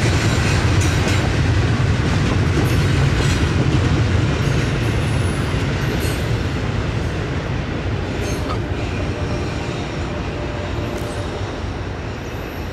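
Double-stack intermodal freight cars rolling along the rails with a steady rumble. The rumble fades as the end of the train passes and moves away.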